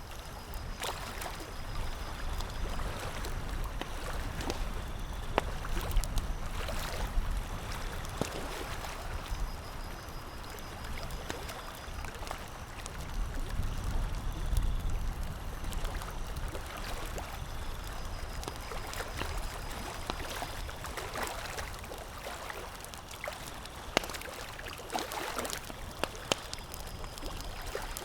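Campfire crackling: wood burning with a steady hiss and frequent sharp pops and snaps scattered irregularly.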